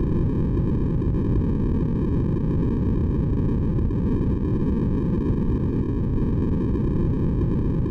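Steady, unchanging synthesized white noise for baby sleep, weighted toward a deep rushing sound with no breaks or events.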